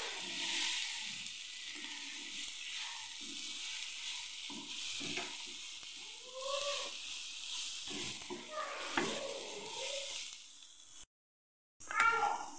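Chopped onion, tomato and green chillies sizzling in a nonstick frying pan while a spatula stirs and scrapes through them, mixing in freshly added garam masala. The sound cuts out briefly near the end.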